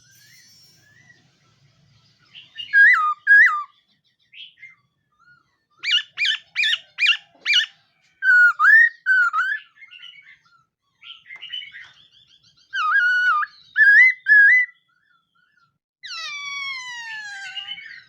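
A khướu mun laughingthrush singing: loud, varied whistled phrases with pauses between them, including a quick run of five notes midway and a long falling call near the end.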